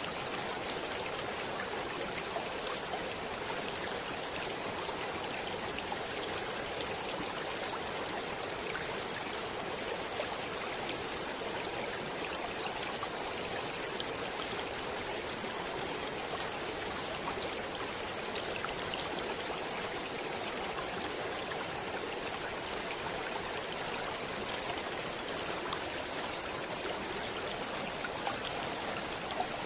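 Stream water flowing and splashing steadily, with scattered small splashes throughout.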